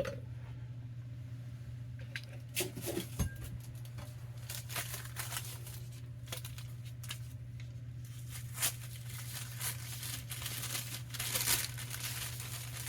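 Paper being handled, crinkling and rustling in irregular crackles that begin about two seconds in, over a steady low hum.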